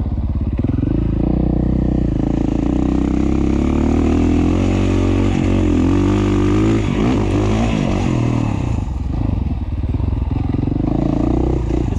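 Engine of a 2017 KTM 450 XC-F, a single-cylinder four-stroke dirt bike, running under way, its revs rising and falling with the throttle.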